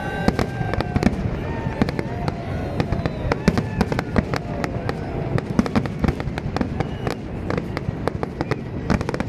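Fireworks display: many sharp bangs and crackles, coming thicker about halfway through, over a steady low rumble of bursts.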